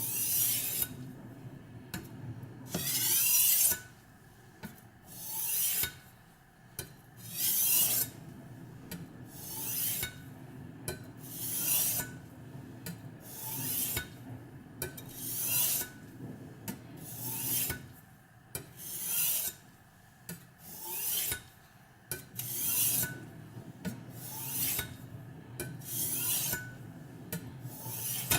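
Knife edge drawn across a Spyderco Medium ceramic bench stone in slow, even strokes: a hissing scrape about every two seconds, each swelling and fading. These are light sharpening passes at a slightly raised angle to set a micro-bevel.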